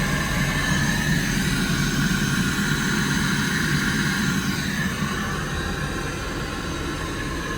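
Steady roar of a Boeing 777 cabin in flight: engine and airflow noise.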